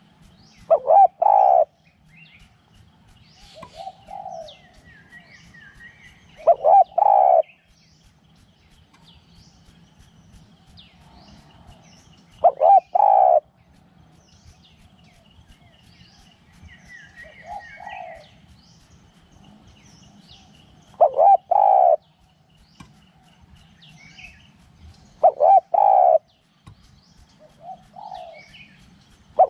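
Spotted dove cooing in a repeated phrase: a soft lead-in coo followed by a loud group of two or three coos, five or six times over. Small birds chirp faintly in the background.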